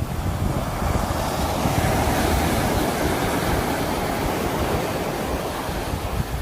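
Sea waves washing onto a shore: a continuous surf noise that swells as a wave comes in about a second in and eases off near the end.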